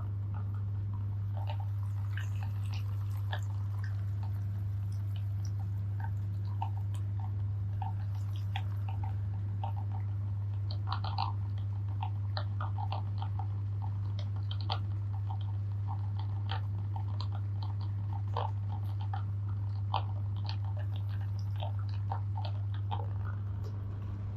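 Electric meat grinder running with a steady low hum while Oreo cookies crunch and crackle through it in small irregular clicks.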